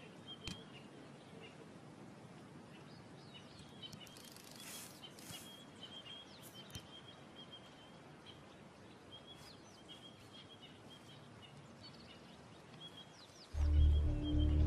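Quiet bush ambience with a bird giving short, repeated high chirps. Low, ominous background music comes in near the end.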